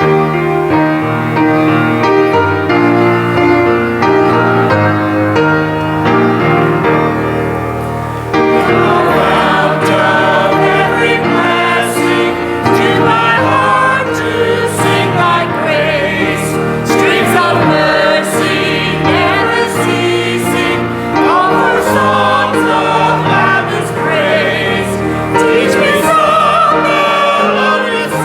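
Gospel song with instrumental accompaniment: held chords for about eight seconds, then singing voices join and carry on over the accompaniment.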